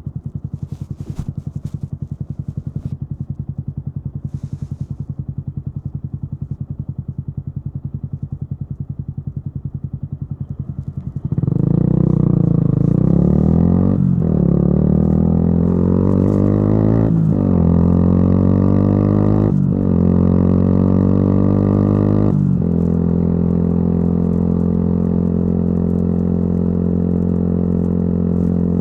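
Yamaha YZF-R125's single-cylinder four-stroke engine through a modified exhaust, idling with an even pulsing beat, then pulling away about eleven seconds in. It rises in pitch with four short breaks, like upshifts, then settles into a steady cruising note.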